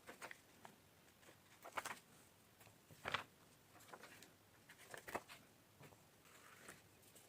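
Soft, scattered taps and rustles of paper and stationery being handled for journaling, with louder clicks about two, three and five seconds in.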